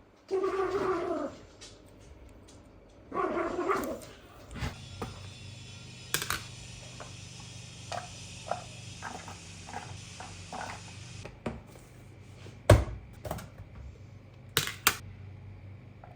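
A dog whining twice in short pitched cries. A low steady hum follows, with scattered small clicks, a loud thunk partway through and a quick pair of clicks near the end.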